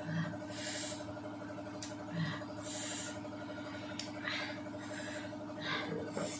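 Close-up chewing and mouth sounds of someone eating fruit, in short bursts every second or two with a few sharp clicks, over a steady hum.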